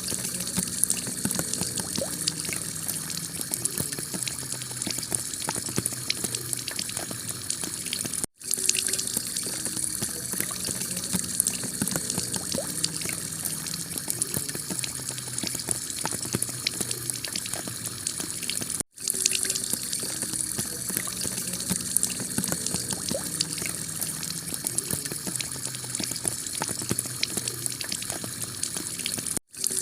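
Heavy rain falling on a clay tile roof: a steady hiss dense with small drop ticks. The sound cuts out for an instant three times, about ten seconds apart, where the recording loops.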